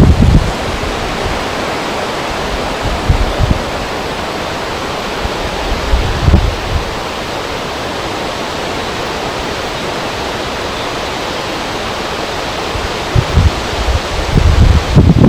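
Wind over a river: a steady rushing noise, with gusts buffeting the microphone in low rumbles several times, most heavily near the end.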